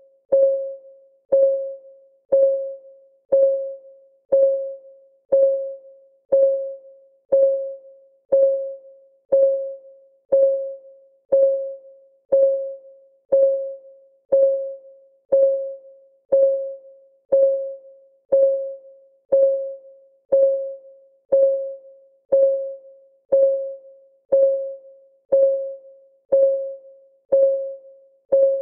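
Countdown timer's clock ticking sound, one tick a second. Each tick is a sharp click with a short ringing tone that dies away quickly.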